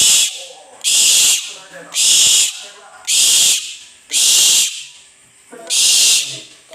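An owl giving a series of harsh hissing calls, about one a second, each about half a second long, with a short break about five seconds in.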